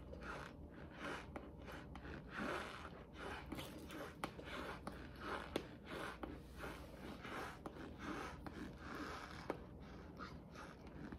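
Cornstarch chunks being bitten and chewed close to the microphone: irregular dry crunches about once or twice a second, with a few sharp clicks.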